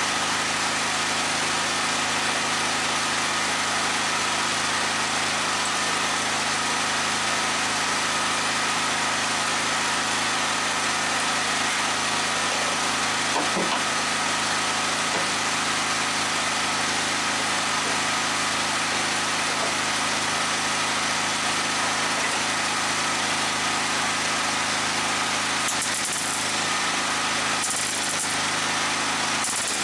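A steady machine hum with a hiss, unchanging in pitch and loudness, with a few brief crackles near the end.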